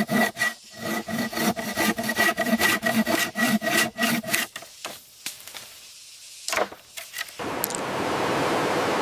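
Rhythmic back-and-forth strokes on wood, like sawing or rasping, two to three a second with a ringing tone under them. The strokes thin out after about four and a half seconds and stop near the end, giving way to a steady rushing noise.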